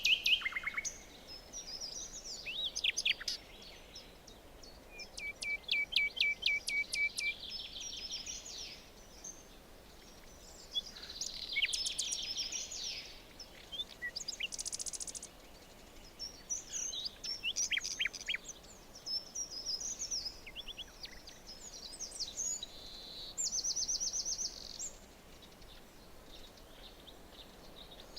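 Several songbirds singing and calling over a faint steady background hiss, with phrases of chirps, quick trills and whistled notes coming one after another.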